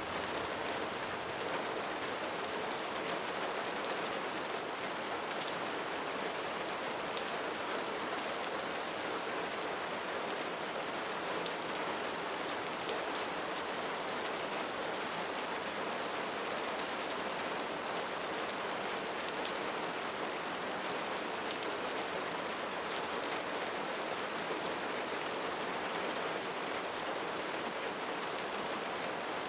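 Steady rain falling on leaves: an even hiss of downpour dotted with countless small drop ticks, unchanging throughout.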